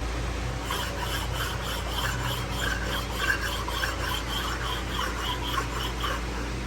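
Flat honing stone rubbed over an engine's head-gasket surface in quick back-and-forth scraping strokes, about three to four a second. This is the surface being dressed flat to the finish that multi-layer steel head gaskets need.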